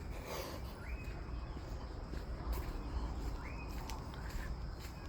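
A bird calling over and over, each call a quick rising note that levels off and holds briefly, three times about two and a half seconds apart, with footsteps on the forest path.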